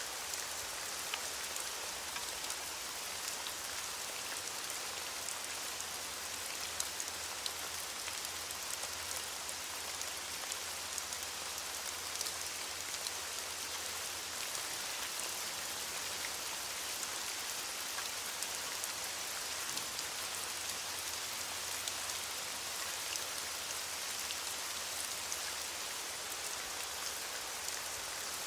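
Steady heavy rain, with many individual drops pattering sharply on a surface among the constant hiss.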